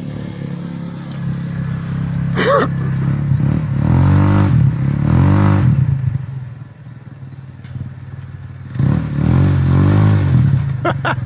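Quad bike (ATV) engine revving hard in two rising-and-falling surges with a lull between, as it pushes through deep mud and bogs down. There is a brief sharp sound early on.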